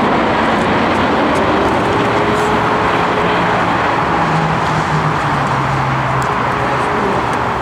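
Aircraft engines running with a loud, steady roar, with faint tones that shift in pitch partway through.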